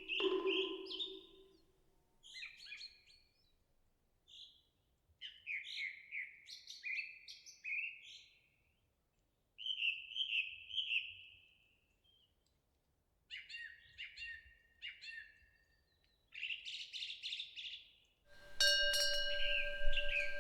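Songbirds chirping and singing in short phrases with silent gaps between them. Near the end, a temple wind-bell rings with a sustained metallic tone.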